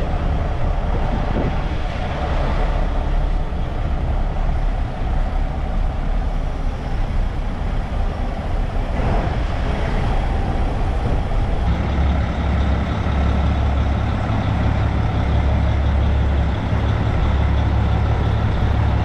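Semi trucks' diesel engines running as the trucks pull out, a steady heavy rumble that grows louder and fuller about twelve seconds in.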